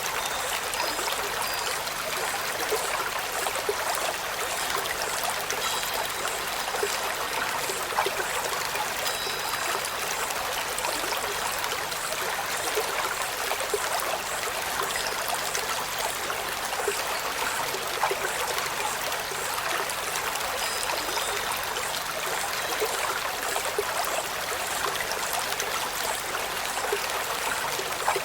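Steady running-water sound, like a small stream or trickling water. A few faint, brief high notes sit just above it.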